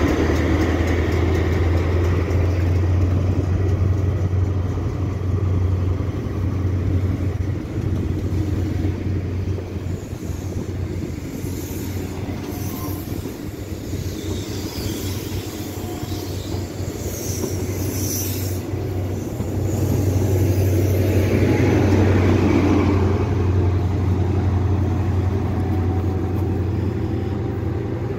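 ScotRail Inter7City HST with Class 43 diesel power cars passing through the station: a steady low diesel hum with the rumble of the Mk3 coaches rolling past. The engine sound weakens in the middle, then grows louder again about 20 seconds in as the train's other power car goes by, and eases off toward the end.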